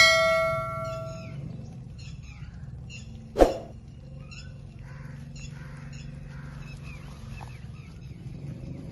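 Green Indian ringneck parrot chirping: many short, high chirps throughout. A ringing tone dies away over the first second and a half, and one short, loud sharp sound comes about three and a half seconds in, over a steady low hum.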